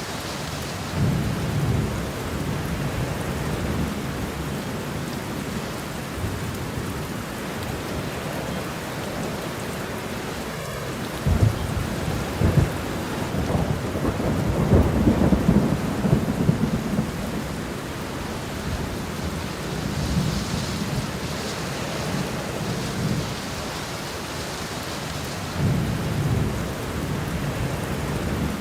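Steady rain with rolling thunder. A couple of sharp low cracks come about eleven seconds in, followed by a long rumble, the loudest part; lighter rumbles come near the start and near the end.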